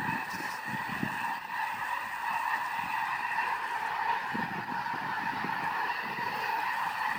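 Dense, unbroken chorus of calls from a huge flock of waterfowl, thousands of birds calling at once so that the calls blend into a steady chirping din.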